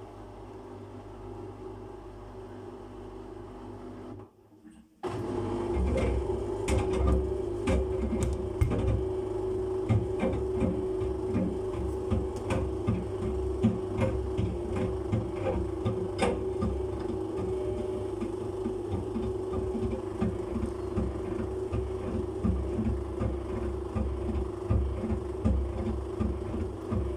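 Samsung washing machine motor running with its drum turning an unbalanced load. A steady hum gives way, after a brief dip about four seconds in, to a louder motor whine with rapid, uneven thumping and knocking as the machine tries and fails to balance the load for spin.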